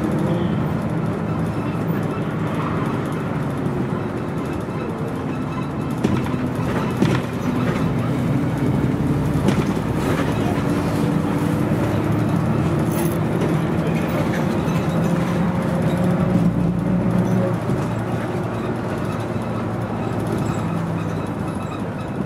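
Scania DSC 11.71 diesel engine of a Scania CN113CLL city bus running while the bus is under way, heard from on board. Its note rises and falls steadily, with a deeper rumble swelling briefly about two-thirds of the way through.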